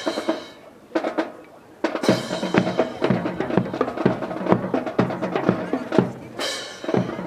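Drill team's rifles being slapped, spun and caught in unison, giving a run of sharp clacks that gets faster and denser about two seconds in, with a couple of ringing crashes. Music with drums plays underneath.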